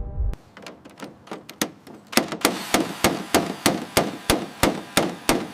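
A series of sharp metallic knocks, sparse and uneven at first, then settling about two seconds in into a steady, louder beat of about three knocks a second.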